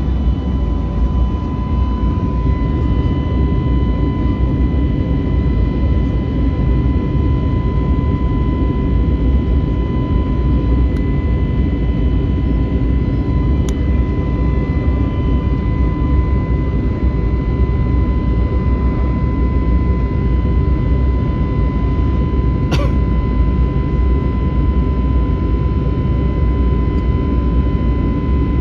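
Steady cabin noise of an Airbus A321neoLR jet airliner under power: a constant low roar of the engines and airflow, with a steady whine near 1 kHz and a fainter one above it. A single sharp click about 23 seconds in.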